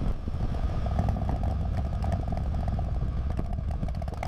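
Harley-Davidson Fat Bob's V-twin engine running steadily at an even pitch.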